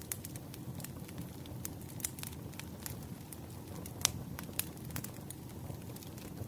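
Wood fire crackling: irregular sharp pops and snaps over a steady low rumble, with one louder pop about four seconds in.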